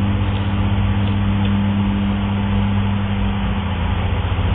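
A steady motor drone: a low hum with a hiss above it, holding level.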